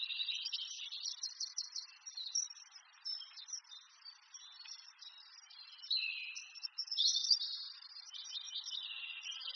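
Small birds chirping and twittering continuously in quick, overlapping calls, with short rising and falling notes around six and seven seconds in.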